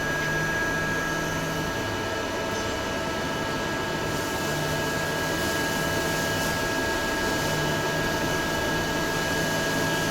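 Steady machine noise of a CNC machine's fans and drives, with a constant high whine and a low hum that comes and goes every second or two.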